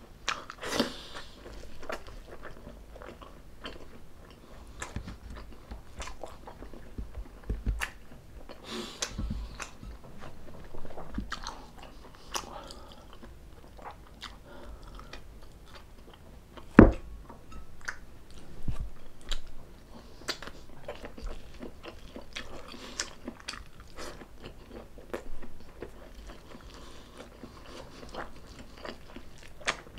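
A person chewing and biting mouthfuls of stuffed squid adobo, many small wet smacks and crunches at an irregular pace. One much louder sharp knock comes just past halfway.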